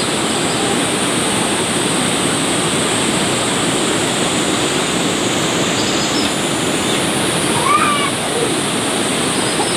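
Heavy rain pouring down in a steady hiss, with one brief call about eight seconds in.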